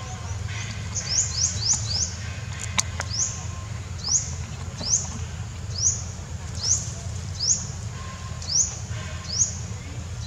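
A bird repeating a short, high, rising chirp: a quick run of about five near the start, then about one a second, over a steady low rumble.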